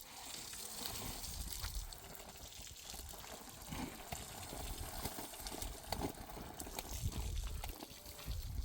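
Running water, with a few small knocks scattered through it.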